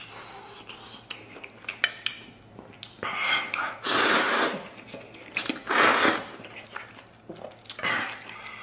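Close-miked eating at the table: chopsticks clicking and clinking against a bowl while picking at braised pork. Two louder rushing noises come about four and six seconds in.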